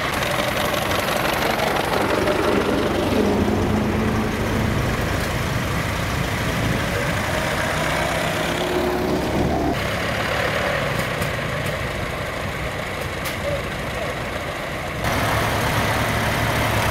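Ford Model T four-cylinder side-valve engines running slowly as the cars drive in across the grass, a steady low engine sound that changes abruptly twice, about ten and fifteen seconds in.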